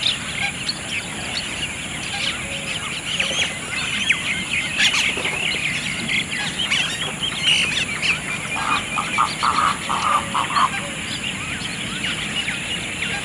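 Many birds calling together at a lakeside bird sanctuary: a dense, continuous chatter of short high chirps. About nine seconds in, one bird gives a quick run of short, lower calls lasting about two seconds.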